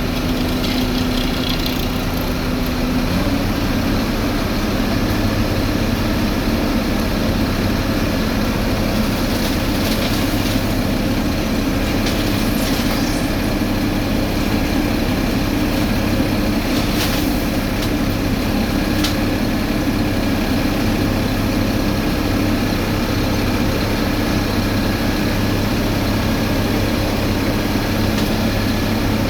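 Heavy diesel road-paving machinery running steadily, a deep engine drone whose note shifts slightly about three seconds in.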